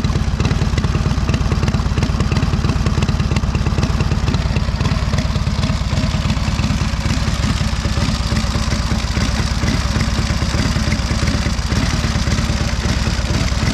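1928 Indian 101 Scout's V-twin side-valve engine idling steadily, with an even, unchanging beat.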